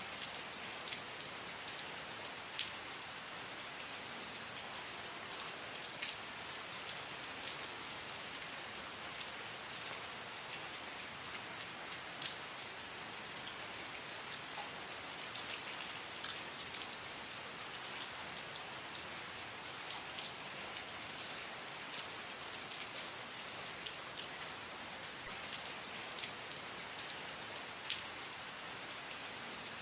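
Steady rain falling, a continuous hiss with scattered sharper ticks of individual drops hitting a surface.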